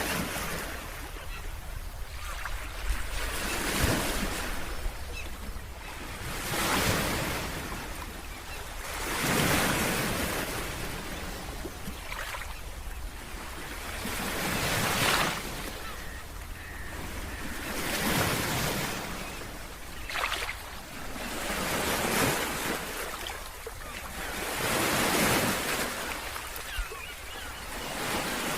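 Ocean waves breaking on a beach, each one swelling and washing back about every three seconds, over a steady low rumble.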